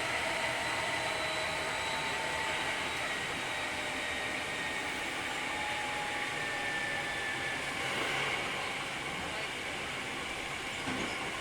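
Hankyu 3300 series electric train heard from inside the car while running between stations: a steady rush of wheels on rail, with faint whining tones from the running gear that drift slightly in pitch.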